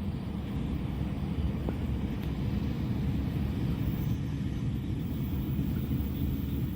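Steady low vehicle rumble, growing slightly louder through the first half.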